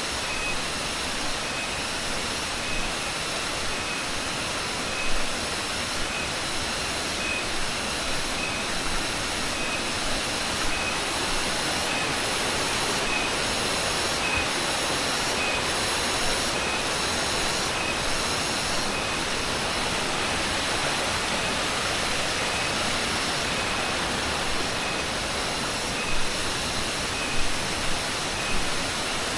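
Waterfall rushing in a steady, even roar, with insects calling in high pulses about once a second. A few short knocks near the end.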